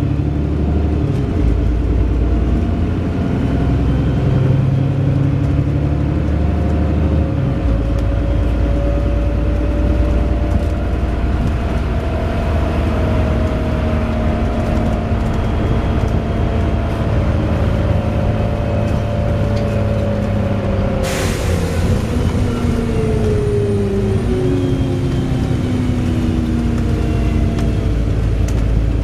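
Wright Pulsar Gemini 2 double-decker bus heard on board while moving: the engine note rises and then falls away, with a shift in pitch about three-quarters of the way through. A short sharp hiss of air comes just before that.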